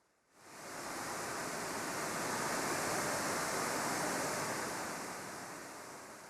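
Steady rushing noise, with no tone or rhythm, that starts suddenly just after the start and slowly fades away in the second half.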